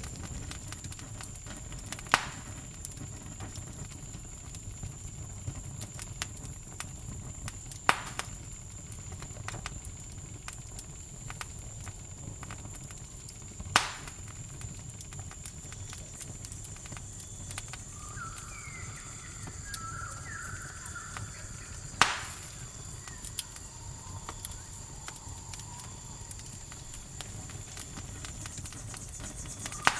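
Wood campfire crackling with constant small snaps and four sharp, loud pops, over a steady high-pitched cricket trill. A short run of stepped calls comes about two-thirds of the way through.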